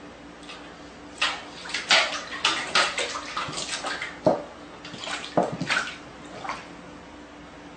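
Water splashing in a quick, irregular run of splashes lasting about five seconds, then stopping.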